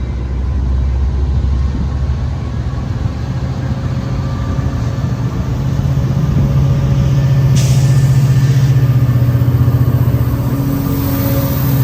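Heavy diesel engine running steadily, growing louder about halfway through, with a short burst of air hiss about eight seconds in.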